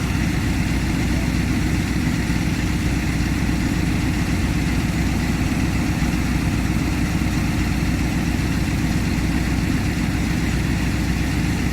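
Diesel locomotive engine idling steadily, an even low rumble that holds without change.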